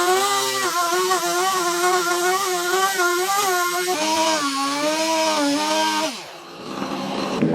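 A power tool's motor running under load as it cuts wood, its pitch wavering up and down as the load changes. About six seconds in it winds down, its pitch falling as it stops.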